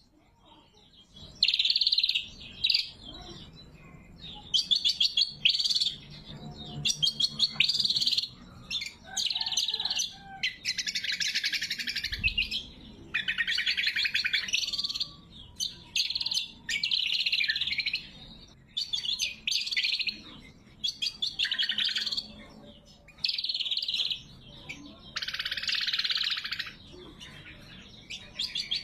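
Greater green leafbird (cucak kombo) singing vigorously: a run of rapid, chattering phrases of one to two seconds each, with short pauses between them.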